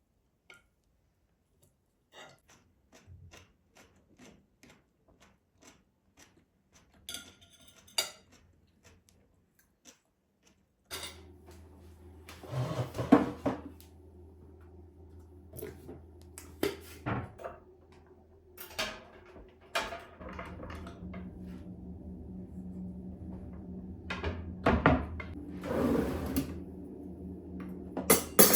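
Kitchen handling sounds: dishes and cutlery knocking and clinking, with a drawer being opened or closed. About a third of the way in, a steady humming appliance starts up and runs under the clatter.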